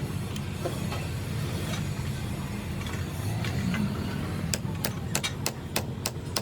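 A steady low mechanical hum, joined about two-thirds of the way in by a quick run of sharp taps, about three a second.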